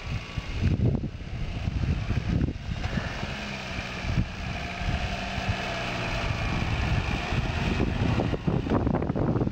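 Suzuki Jimny's engine running steadily at low revs as the small 4x4 crawls across a grassy slope toward the microphone, under heavy wind buffeting on the microphone.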